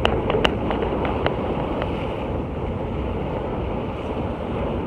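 Sea waves washing on the shore with wind buffeting the microphone: a steady rushing noise, with a few faint clicks in the first two seconds.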